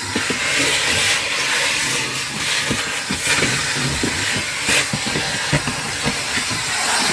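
Vacuum cleaner running steadily with a strong hiss, sucking up dry debris, with irregular small knocks and rattles throughout.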